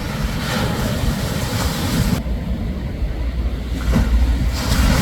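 Shorebreak waves breaking and washing on a beach, with wind rumbling on the microphone. The hiss of the surf falls away for about two seconds midway while the low rumble carries on.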